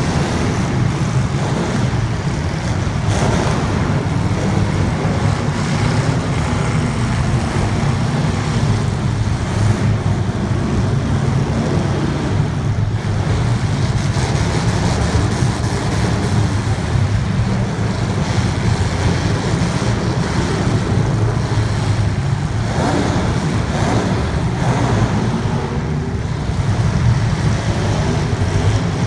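Race car engines running hard as a field of cars laps the track, a loud continuous drone with no single car standing out.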